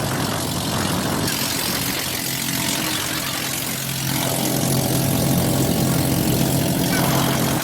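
Engine running steadily under heavy wind noise, its low hum growing stronger about four seconds in.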